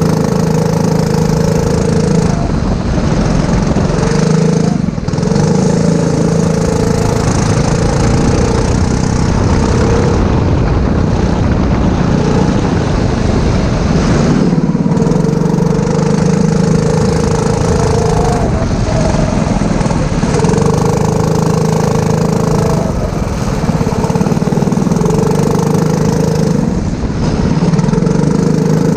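Go-kart's four-stroke engine heard onboard, running at high, steady revs and dropping off briefly several times as the throttle is lifted for corners.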